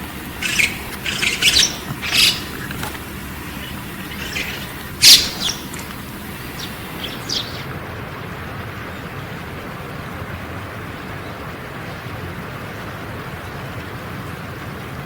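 A wild bird giving a run of short, high-pitched calls, the loudest about five seconds in; the calls stop after about seven seconds, leaving a steady low background noise.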